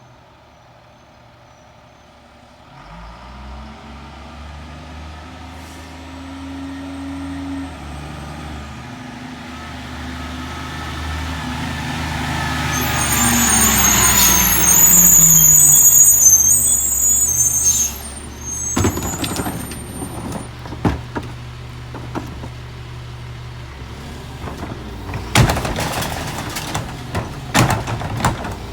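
Peterbilt McNeilus rear-loader garbage truck pulling away, its diesel engine climbing in pitch and growing louder. It then slows with a high-pitched air-brake squeal and settles to idle, with a run of sharp clanks and knocks near the end.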